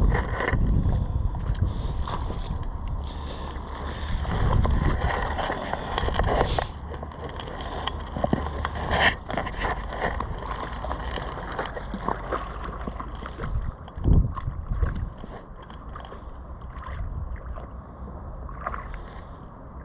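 Floodwater sloshing and splashing in uneven surges as something moves through it, with a sharp knock about two-thirds of the way in.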